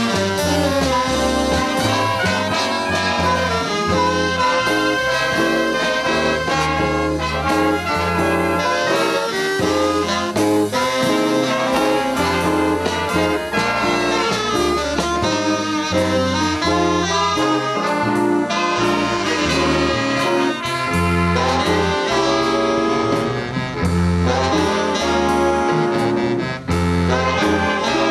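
Big-band swing music played by a swing band, led by saxophones and brass over a bass line that steps from note to note.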